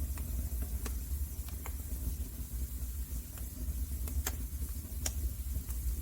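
Wood fire burning in a fireplace: a steady low rumble with scattered sharp crackles and pops, the two loudest pops in the second half.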